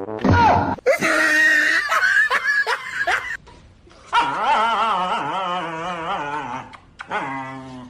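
A dog vocalizing: a quick run of high yips and whines, then a long wavering whine from about four seconds in, and a short one near the end.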